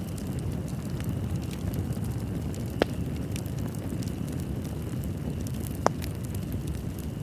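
Fireplace fire burning: a steady low rumble with scattered soft crackles and two sharper pops, one about three seconds in and one about six seconds in.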